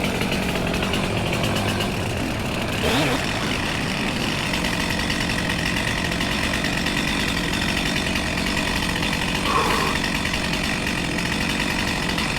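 A small engine running steadily at an even speed, with a fine rapid chugging pulse.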